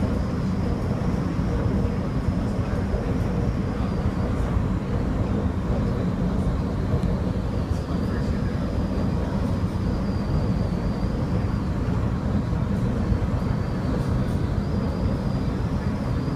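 Steady rumble of a SEPTA Silverliner IV electric railcar running at speed, heard from inside the passenger car: wheels on rail and running gear, with a faint high whine that fades in and out.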